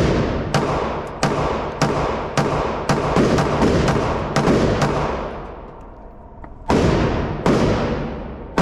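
Pistol shots fired in a quick string, about one every half second, then a pause of about two seconds before two more. Each shot rings on with the echo of an indoor range.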